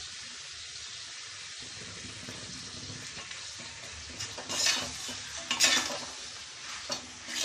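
Mutton and masala sizzling in oil in an aluminium kadai as chilli powder is fried in. From about four seconds in, a metal spatula stirs and scrapes the pan in several short strokes.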